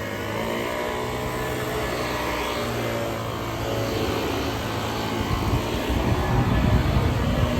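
Small engine of a garden power tool (mower, edger or blower) running steadily with a constant low hum; it gets louder and rougher in the last couple of seconds.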